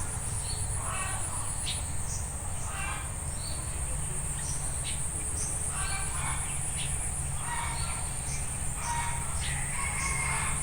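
Steady, high insect trill, such as a cricket or cicada, with short calls breaking in every second or so over a low background rumble.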